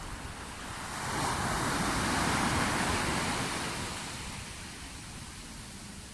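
Sea waves washing on the shore: one wave swells up about a second in, peaks and fades back to a lower surf wash.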